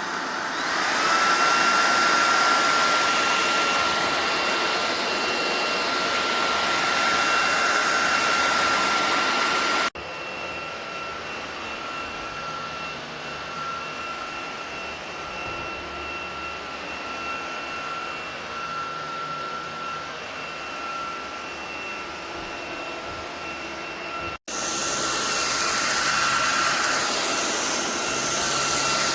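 SunSare X11 cordless stick vacuum running, a steady motor rush with a high whine that rises as it spins up in the first second. It drops abruptly to a quieter level about 10 seconds in and comes back louder after a brief break about 24 seconds in.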